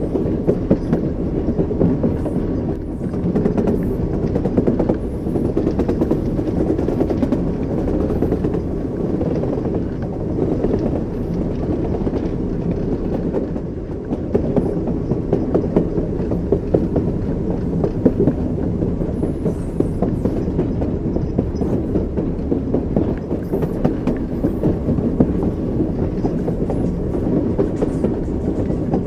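Train wheels running over rail joints at speed, a continuous low rumble with a dense rattle of wheel clicks.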